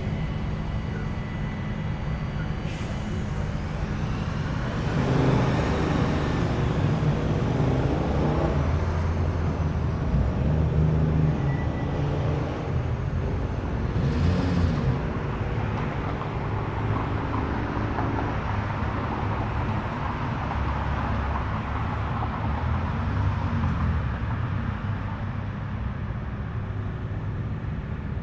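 Car engines running as cars roll slowly past, with one growing louder and revving up and down for several seconds. About halfway through comes a short hiss.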